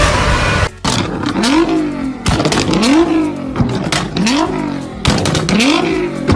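Car engine with a loud exhaust revved again and again, about one rev every second and a half: the pitch climbs quickly and then falls back, with sharp pops and crackles from the exhaust as it comes off each rev.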